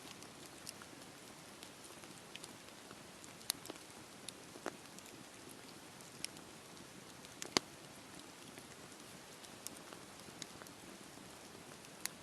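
Wood fire burning in a fireplace: a soft steady hiss with irregular sharp crackles and pops, the loudest pop about seven and a half seconds in.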